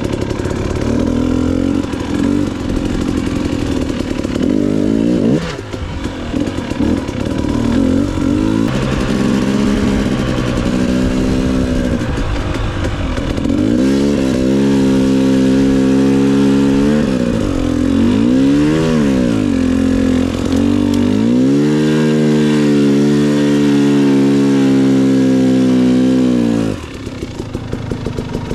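Two-stroke dirt bike engine, a KTM 250 XC-W TPI, revving up and down under throttle while being ridden over trail ruts, its pitch climbing and dropping repeatedly, with wind noise. The engine eases off near the end.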